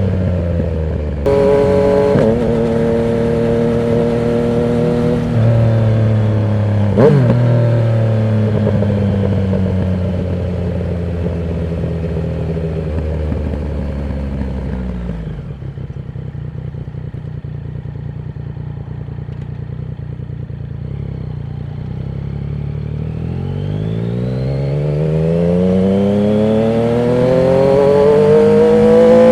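Yamaha MT-09's three-cylinder engine through a Termignoni exhaust with the dB killer removed, riding: revs jump up about a second in and blip sharply around seven seconds, then fall slowly as the bike slows on the engine. It runs low and steady for several seconds, then the revs climb steadily as it accelerates near the end.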